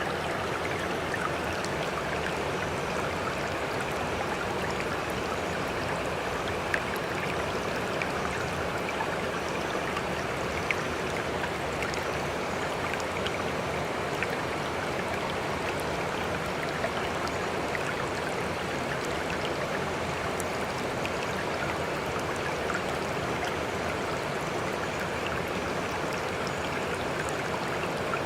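Steady rush of sea water, even and unbroken, with a few faint sharp ticks of splashing here and there.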